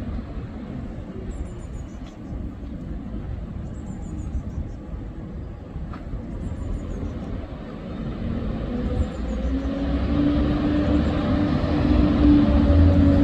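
A bus approaching over steady road rumble, its engine drone coming in about two-thirds of the way through and growing louder toward the end. Faint high chirps repeat every couple of seconds.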